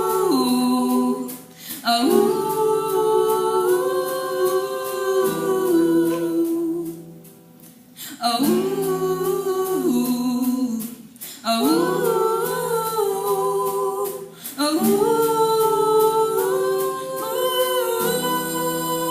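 Three young girls singing a cappella in harmony, wordless held notes that glide together in phrases of a few seconds, separated by brief breaths.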